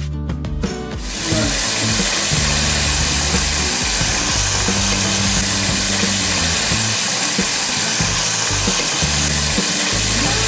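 Flour-coated chicken pieces deep-frying in hot oil in a pot, a loud steady sizzle that starts abruptly about a second in. Background music plays underneath.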